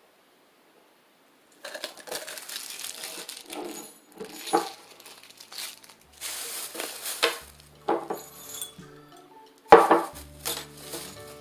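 A homemade glass-breaking sound effect: hard objects clinking and rattling in a clatter of repeated bursts, with the sharpest crash about ten seconds in. Background music comes in about two-thirds of the way through.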